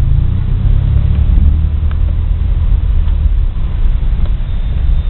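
A car driving: engine and road noise make a steady low rumble, with the engine note audible in the first second and a half.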